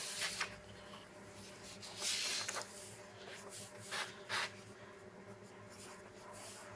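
Handwriting: a few short strokes of writing near the start, around two seconds in and around four seconds in, over a faint steady hum.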